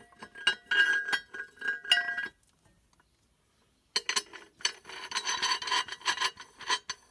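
A hand tool scraping and rubbing on metal engine parts, with a faint metallic ringing. It comes in two spells: about two seconds of scraping, a pause of about a second and a half, then steadier scraping to the end.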